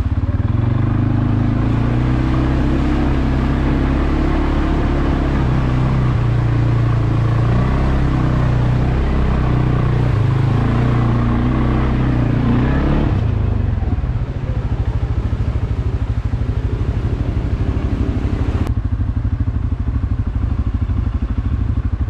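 CFmoto CForce 520 ATV's single-cylinder engine running steadily under load, then dropping to an evenly pulsing idle about two-thirds of the way through.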